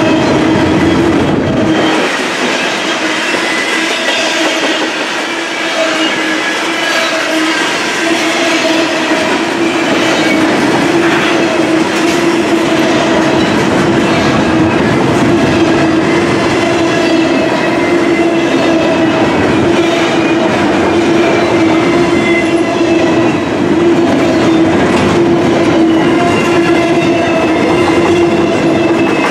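Double-stack intermodal well cars of a freight train rolling past at close range: steady wheel-on-rail noise with clickety-clack over the rail joints and a steady tone underneath.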